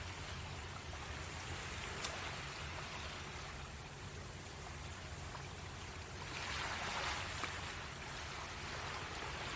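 Waves washing on a shore, swelling up about six seconds in and easing off again, with two sharp crackles from a wood campfire, one about two seconds in and one near the end.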